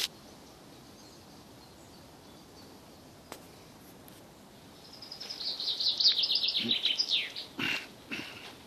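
Quiet forest ambience, then a songbird sings a fast series of rapid high notes that drift downward in pitch for about two and a half seconds. Two brief knocks or rustles follow near the end.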